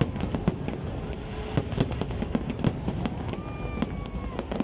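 Fireworks display: aerial shells bursting in a rapid, irregular string of bangs and crackles. A held, slightly falling whistle-like tone comes in about three seconds in.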